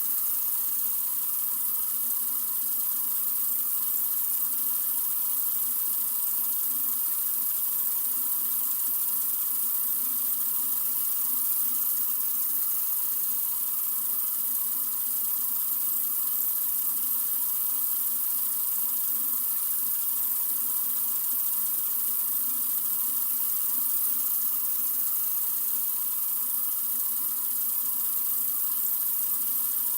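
Tap water running steadily from a faucet into a sink: an even, unbroken hiss.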